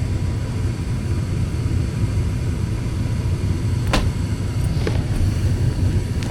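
Tempstar gas furnace running with its blower on, a steady low rumble. A sharp click comes about four seconds in.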